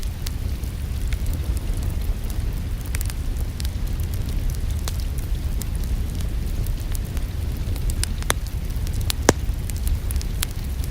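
Fireplace wood fire crackling: irregular sharp pops and snaps over a steady low rumble, with two louder pops about eight and nine seconds in.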